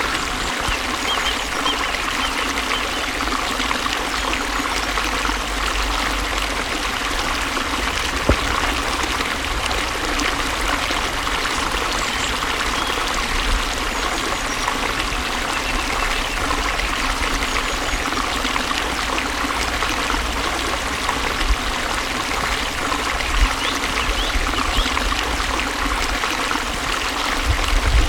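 Water flowing steadily, an even, unbroken rush and trickle.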